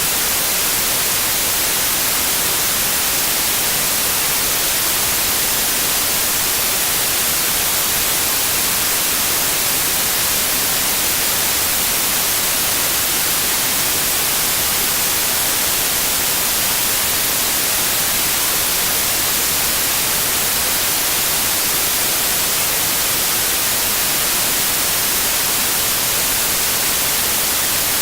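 Steady white noise: an even, unbroken hiss, brightest in the treble, at a constant loud level.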